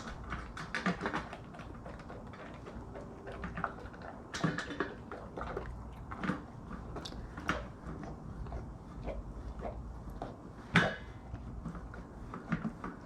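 Golden retriever eating his breakfast from a bowl: irregular crunching and clicking chews throughout, with one sharper knock about eleven seconds in.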